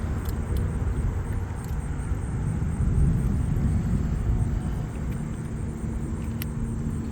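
A low, steady rumble with a faint hum entering about halfway through.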